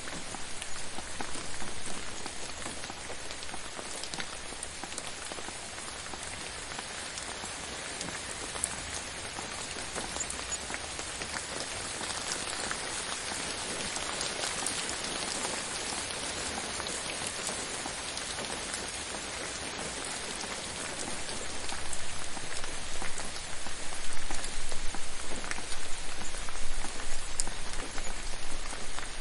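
Steady rain falling on a hard surface, a dense patter of individual drops, growing louder and more uneven about three-quarters of the way through.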